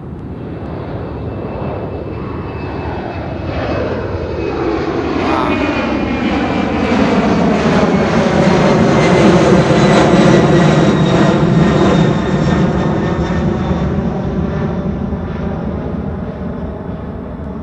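Jet aircraft taking off at full power and passing close by. The engine noise swells to a peak about ten seconds in and then fades away, with tones sweeping through in curves as it goes past.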